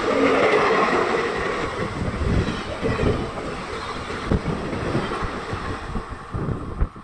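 Passenger train behind a WAP-7 electric locomotive rushing past at speed, its wheels galloping, a rapid, uneven clatter over the rail joints, over a loud rush of rail and wind noise that slowly fades. A horn note cuts off about half a second in.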